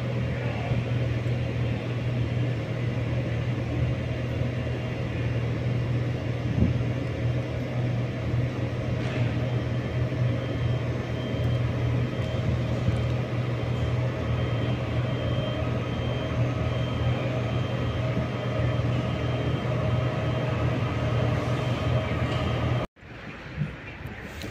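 A railway locomotive or train power unit running steadily at a standstill: a constant low hum with a faint steady high whine. It cuts off abruptly near the end to quieter station sound.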